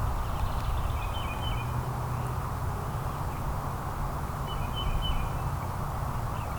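Backyard ambience: a steady low rumble, with a bird giving two short chirping calls, about a second in and again near five seconds.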